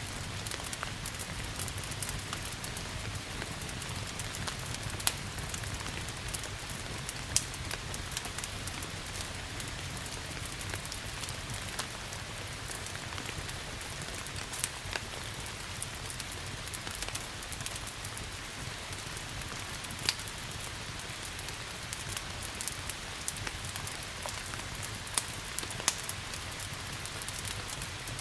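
Steady rain mixed with a crackling wood fire: an even hiss of rain with scattered sharp pops and snaps, a few louder than the rest.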